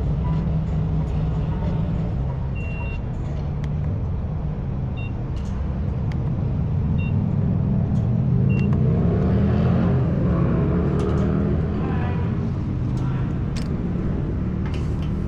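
Motorcycle engine running steadily under way, its pitch rising about eight seconds in as it speeds up.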